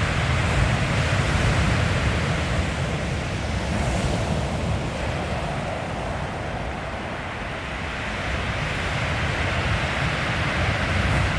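Sea waves breaking and washing up a shingle beach, the surf swelling, easing off around the middle and building again near the end. Wind buffets the microphone with a low rumble.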